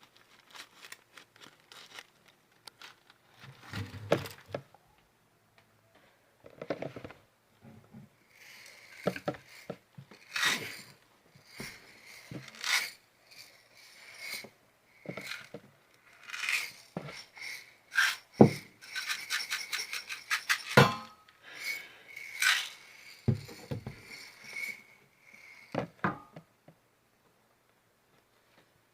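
Irregular rubbing, scraping and tapping on objects, made as 'satisfying' sounds, with a quick run of clicks about two-thirds of the way through.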